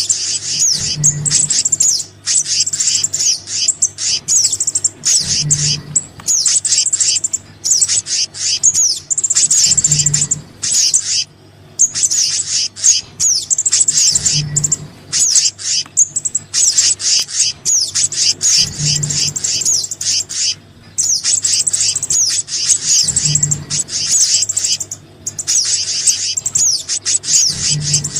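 Bird-lure recording of small birds calling: rapid, high-pitched chirps and trills in dense bursts with short gaps, a combined track of sogon and kehicap (black-naped monarch) calls. A soft low thud repeats about every four and a half seconds underneath.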